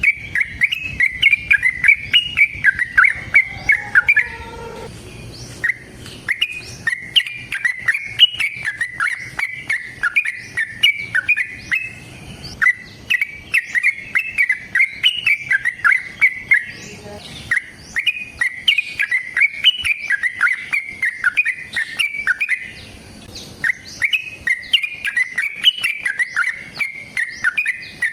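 A yellow-vented bulbul (trucukan) singing long, rapid, chattering warbled phrases of several seconds each, with brief pauses between them.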